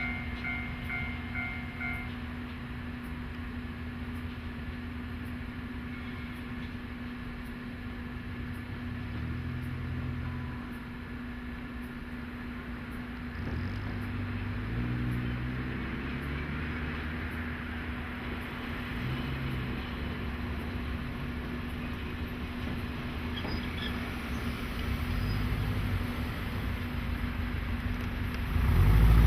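JNR DE10 diesel-hydraulic locomotive running with a steady low hum, its engine note rising and falling in pitch several times as it is throttled; it grows loud just before the end as it comes close.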